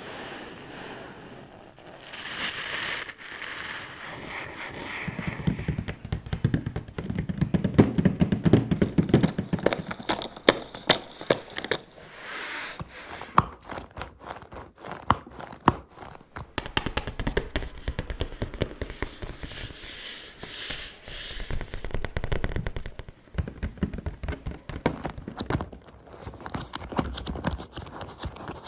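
ASMR fingertip tapping and slow scratching on object surfaces: clusters of quick taps and clicks, mixed with scratchy rubbing sounds.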